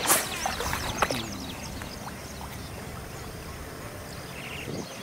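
Birds calling over a flooded marsh, many short repeated chirps, with a brief rushing burst at the start and a sharp click about a second in.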